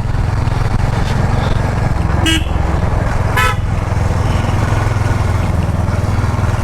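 Motorcycle engine running steadily on the move, with two short horn toots, one a little over two seconds in and another about a second later.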